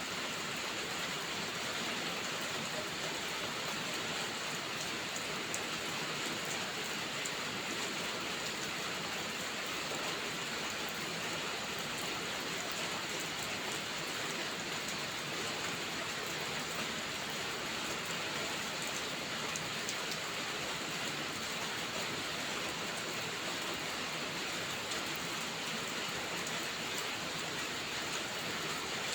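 Steady rainfall, an even hiss with scattered drops pattering, unchanging throughout.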